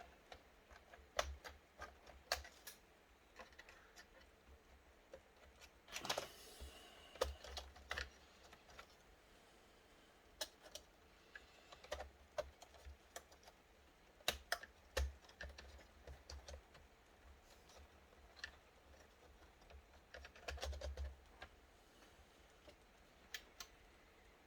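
Irregular light clicks and taps from hands handling a laptop's plastic casing and screen parts during disassembly, with a short scraping rustle about six seconds in and another around twenty-one seconds.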